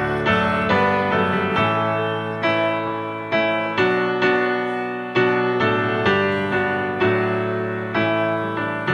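Piano playing a slow, gentle piece, chords struck about once a second and left to ring.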